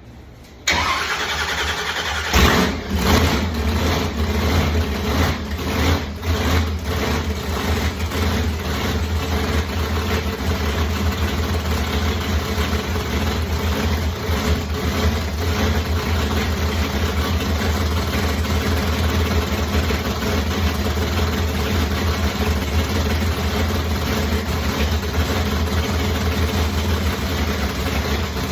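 A supercharged car engine is cranked by its starter, catches after about a second and a half, surges a few times, then settles into a steady idle.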